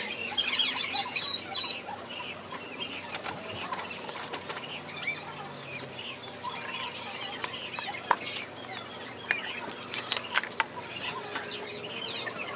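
Small birds chirping and twittering, many short high calls, busiest and loudest in the first second and a half.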